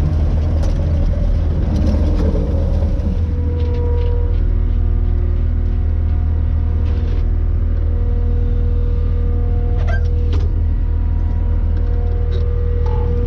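Skid steer engine running steadily with a deep, continuous rumble. A few steady higher tones join it a few seconds in.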